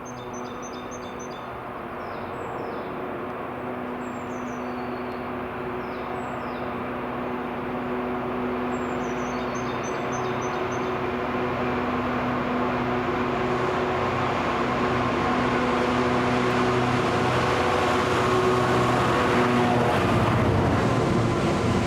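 Diesel-hauled freight train approaching, its engine note steady in pitch and growing gradually louder. Small birds chirp over it in the first half.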